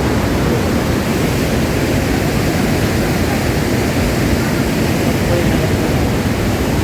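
Marsyangdi River in flood: a steady, loud rush of fast, high water with no let-up.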